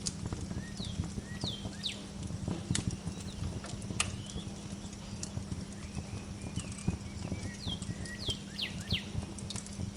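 Wood fire crackling and popping steadily, with birds chirping over it in short falling notes, in two brief flurries: one about a second in and one near the end.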